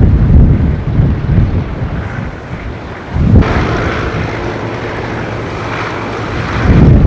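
Wind buffeting the microphone, with tractor engines running. A little over three seconds in, the wind eases and a steady engine note comes through clearly, before the wind rumble rises again near the end.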